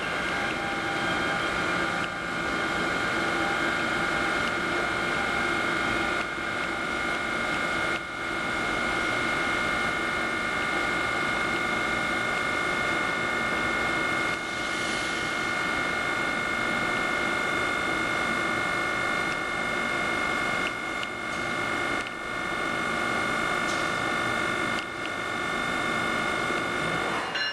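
NJ Transit electric train pulling out of the platform: a steady high electric whine over a low rumble of moving cars.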